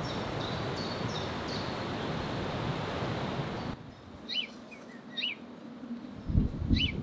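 Outdoor ambience: a steady rush of open-air noise with faint bird chirps, cutting suddenly about halfway through to a quieter stretch where a bird gives three short, sweeping calls, with low rumbles near the end.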